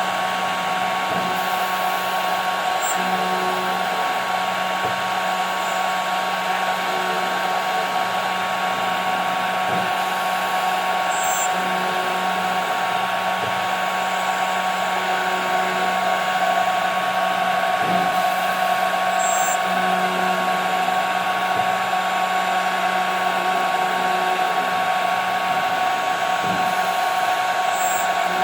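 CNC router spindle running steadily while machining 5 mm plexiglass, a loud continuous whine. A lower hum from the machine switches on and off every few seconds as it moves.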